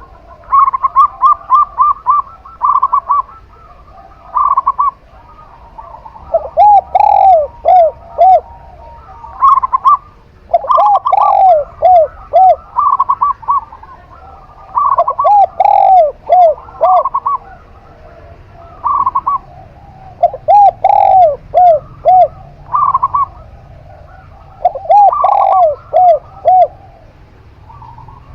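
A zebra dove (perkutut) and a spotted dove (tekukur) cooing back and forth. Quick, higher-pitched phrases alternate and overlap with lower phrases of falling coos, each bird calling again every few seconds.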